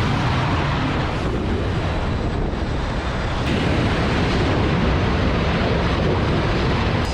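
Steady noise of a jet aircraft's engines, loud and even throughout.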